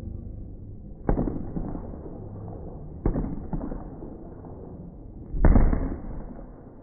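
Three firework bangs about two seconds apart, each dying away over a second or so, the third the loudest.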